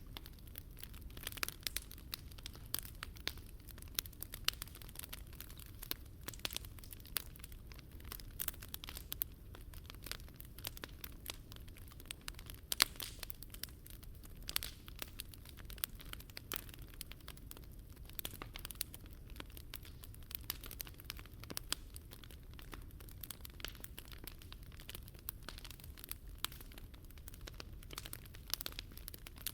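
Wood fire burning in a Picogrill 398 fire pit: dense, irregular crackles and pops over a low, steady rumble.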